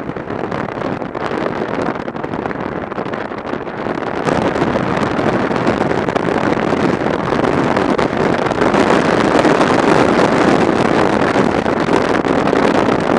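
Wind rushing over the microphone of a motorcycle in motion, with road and engine noise underneath. The rush grows louder and brighter about four seconds in.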